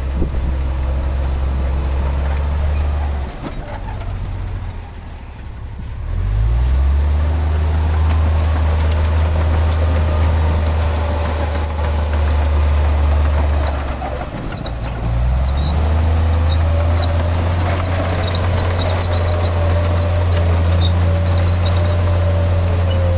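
Heavy diesel engine of an earthmoving machine running hard with a deep steady drone. It eases off about three seconds in and again near the middle, each time revving back up under load.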